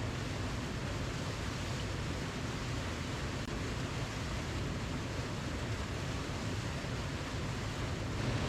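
Steady rushing of a waterfall: an even, unbroken roar of falling water, heaviest in the low end.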